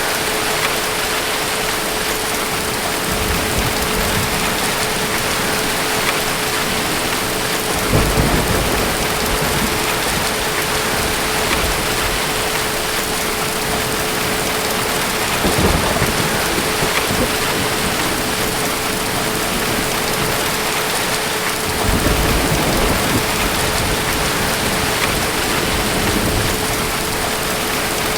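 Steady heavy rain, with distant thunder rumbling low three or four times. A steady hum runs underneath.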